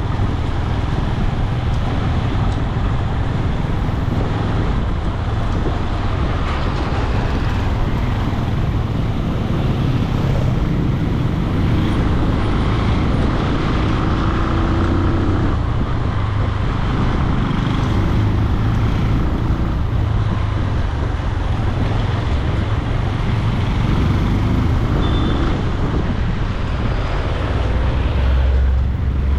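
Benelli 150i motorcycle running steadily while riding through city traffic, with its engine and road noise heard together.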